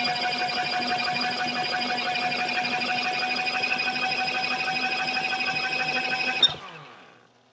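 Small electric motor of a portable foldable mini washing machine spinning its spin-dryer basket, a steady whine. About six and a half seconds in it cuts off with a click and runs down to near silence.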